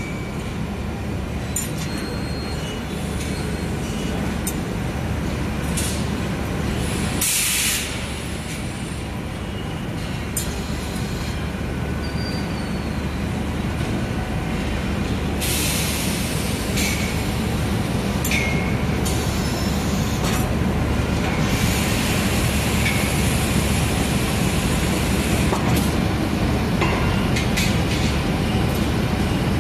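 Hot coil spring winding machine running in a factory: a steady low mechanical hum with several loud hissing bursts, one about seven seconds in and longer ones in the middle and later, and scattered clicks.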